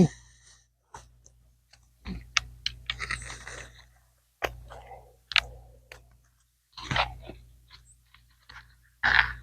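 A half-face painting respirator being handled and put on: irregular plastic clicks, strap snaps and rustling, with a louder rustle near the end.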